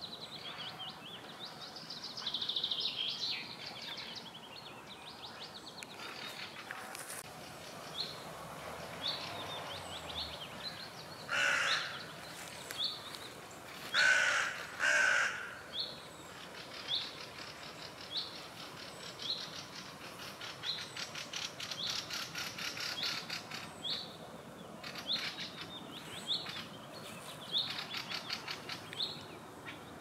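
Wild birds calling in a birch wood. A short, high, hooked chirp repeats about once a second throughout. In the middle come three loud, harsh calls close together.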